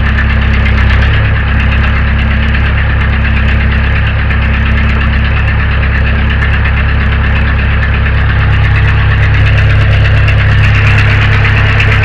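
Case 580 backhoe engine running steadily close by while the rebuilt loader bucket ram is worked to bleed the air out of it. Its note shifts about a second in and it gets a little louder in the last few seconds.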